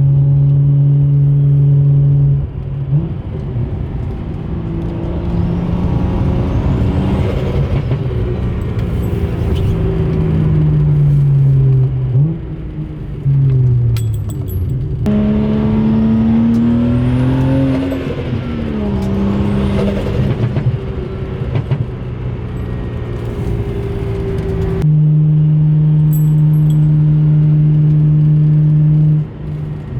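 BMW N55 inline-six with a big single turbo, running a steady drone that breaks into pulls where the engine note rises and falls and a high turbo whistle sweeps up. The sound changes abruptly twice, about halfway through and near the end, before settling back to a steady drone.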